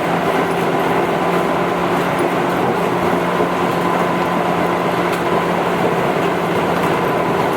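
Tobu 8000 series electric train running at a steady speed: a constant rumble of wheels on rail with a steady hum from the motors and gears.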